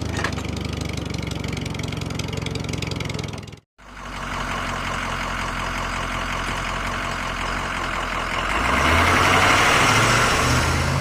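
Vehicle engine running steadily with a fast chugging pulse. It cuts off abruptly about three and a half seconds in and starts again a moment later. Near the end it climbs in pitch and gets louder as it revs.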